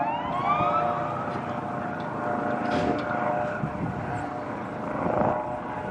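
Medical helicopter's rotor beating and turbine whining steadily, with a whine that rises in pitch over the first second and then levels off.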